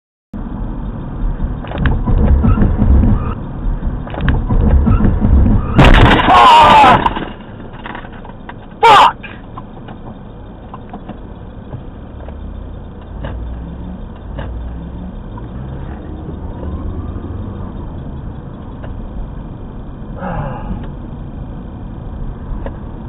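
Dashcam recording of car road and engine noise, with a loud, sudden crash lasting about a second around six seconds in and a short sharp sound near nine seconds; steadier, quieter road noise follows.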